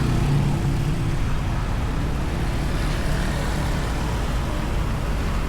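Road traffic: passing cars with a steady low rumble of engines and tyres, an engine hum clearest in the first second.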